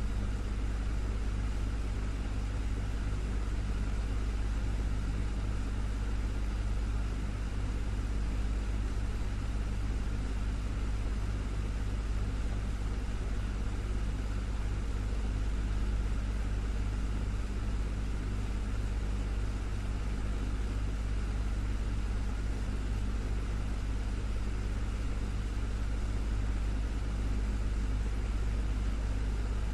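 Desktop fan running steadily: a constant low motor hum under an even rush of moving air, with no change in speed.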